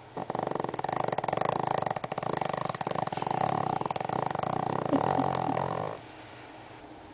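Small Pomeranian dog snoring: a long, rapidly fluttering snore with a short break about two seconds in, stopping about six seconds in.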